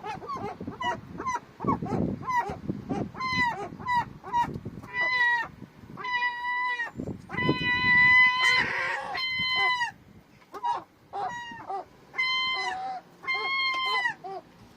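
Seagulls calling over and over in a fast run of short, loud, pitched yelps, with longer held calls about six to nine seconds in and again near the end: two gulls squabbling.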